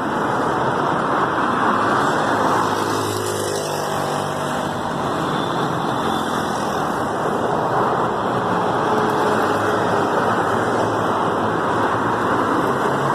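Road traffic on a rain-wet street: a steady rush of tyres on wet asphalt with engine hum from passing cars, swelling and easing as vehicles go by.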